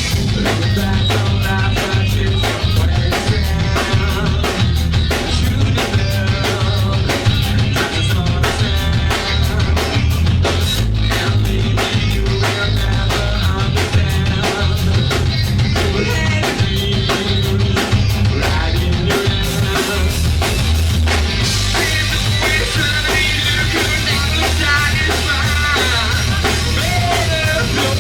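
Live rock band playing: a drum kit keeps a steady driving beat under bass and guitar. A singing voice comes in about three-quarters of the way through.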